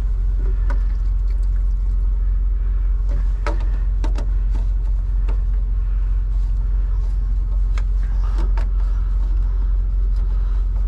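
Semi-truck's diesel engine idling: a steady low rumble, with a few light clicks and knocks scattered over it.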